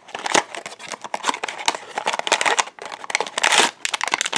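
Crinkling and rustling of blind-box packaging being handled and torn open by hand, a dense run of irregular crackles.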